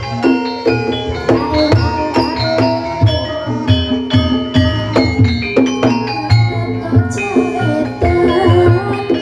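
Gamelan music for an ebeg horse-trance dance: mallet instruments ring out a busy melody over hand-drum strokes.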